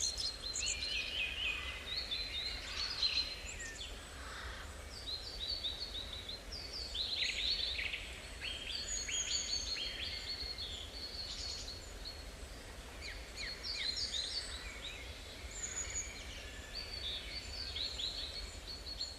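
Several forest songbirds calling and singing together, a busy mix of short chirps, trills and quick falling notes, over a steady low rumble.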